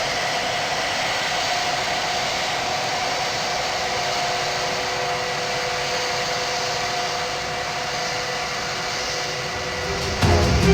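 Large jet aircraft's engines running: a steady rushing noise with a thin, steady whine on top. Music comes in near the end.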